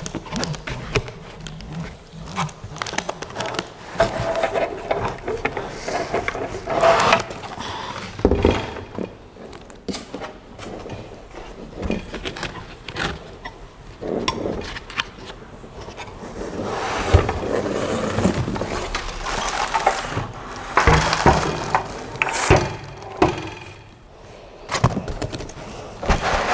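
Parts being worked out of a tightly packed shipping box: irregular scraping and rustling of packaging, with scattered knocks and clicks.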